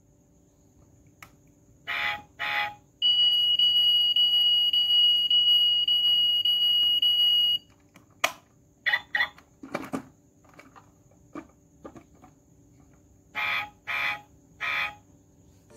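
A high, steady electronic tone like an alarm beep, held for about four and a half seconds. It is preceded by two short chirps and followed by scattered clicks and more short electronic chirps.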